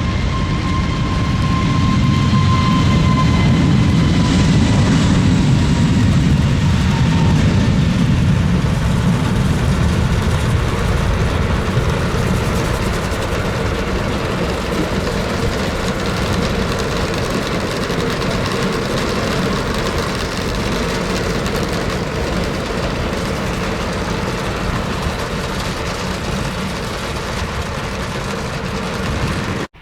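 Jet aircraft engines passing close by, a whine falling in pitch over the first several seconds above a heavy rumble, which then eases into a steady, slowly fading roar.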